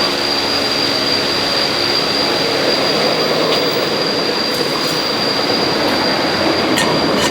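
A power tool running steadily in a workshop with a constant high whine over a harsh, grinding noise. A lower hum fades out about two seconds in.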